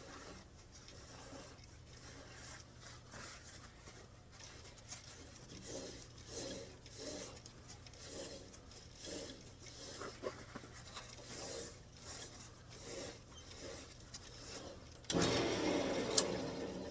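Paper towel rubbing and wiping over a freshly shellacked wooden turning in soft, irregular strokes. About fifteen seconds in, the wood lathe is switched on briefly, a sudden louder run that fades within two seconds, spinning the piece to fling wet shellac out of the grooves.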